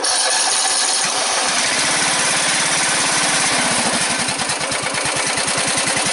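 Small gasoline engine running steadily on a cold morning, having just caught after its fuel shut-off was opened; its firing settles into a fast, even beat after a second or so.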